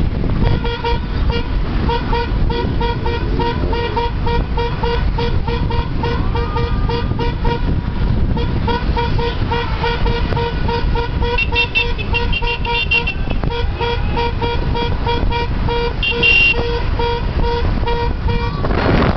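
Motorcycle riding on the open road: a loud, steady rumble of engine and wind noise, with a regular pattern of short repeated high tones over it, like a music track.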